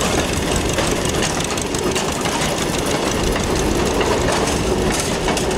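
Train running, with a steady, rapid mechanical clatter.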